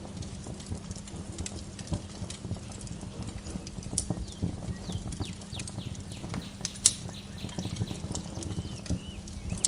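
Wood fire crackling in a fireplace: dense, irregular pops and snaps over a low rumble of flames, with one sharp pop about seven seconds in. Birds chirp faintly in short falling notes.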